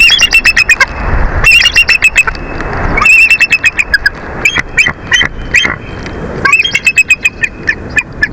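Bald eagles calling: four bouts of rapid, high-pitched chittering, each a quick string of piping notes, over a low rumble of wind on the microphone.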